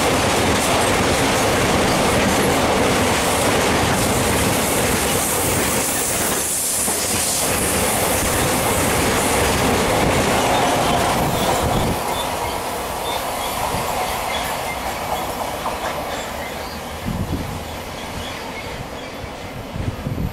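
Express train passing at speed: a loud, steady rush of wheels on the rails that drops off about twelve seconds in and fades as the train moves away.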